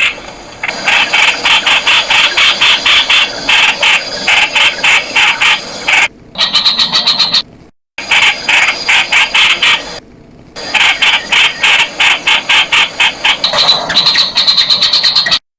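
Streak-eared bulbuls calling: fast, dense runs of sharp chattering notes, several a second, broken by short pauses, with the sound cutting out completely for a moment about halfway through.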